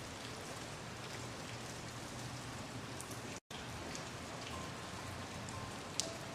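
Steady rain falling, with scattered sharp drops and drips standing out. The sound cuts out completely for a split second about three and a half seconds in, then resumes.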